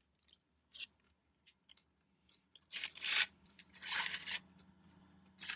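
Close-up crunching and chewing of a crisp McDonald's hash brown: a few faint mouth clicks, then two louder crunchy bursts about three and four seconds in.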